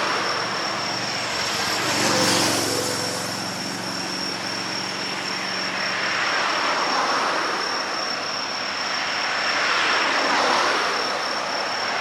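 Vehicles passing by, the noise swelling and fading about two seconds in and again near the end, with an engine hum for a few seconds after the first pass. A steady high-pitched whine runs under it all.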